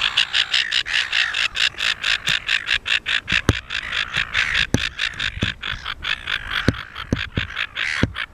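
Silver gull calling in a fast, even run of short, harsh notes, about five or six a second. A few dull low knocks sound now and then underneath.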